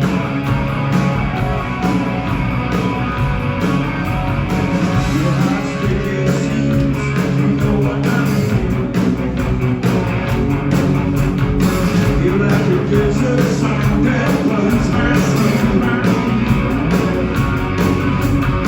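Live rock band playing at concert volume: electric guitars, bass and drums, with a voice singing at times.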